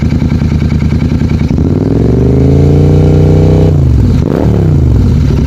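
Royal Enfield Interceptor 650's parallel-twin engine through an aftermarket Gursewak exhaust: idling with an even pulse, then revved up about a second and a half in, held briefly, and dropping back to idle about four seconds in.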